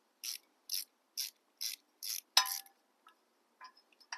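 Ratchet wrench clicking in steady strokes, about two a second, as a bolt is turned out. About two and a half seconds in there is a sharper metallic clink with brief ringing, followed by a few faint ticks.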